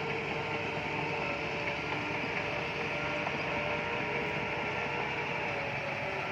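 Bulldozer working, its diesel engine running steadily with a faint steady whine over the mechanical noise.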